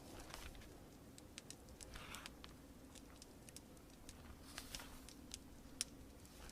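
Faint crackling fire: scattered sharp pops and snaps, the loudest a little before the end, with a few soft rustles over a steady low hiss.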